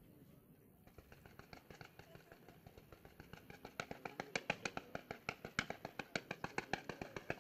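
Fireworks launching in rapid succession from a line of ground-fired red stars: a fast string of sharp pops, about six a second. It starts faint about a second in and grows much louder from about halfway.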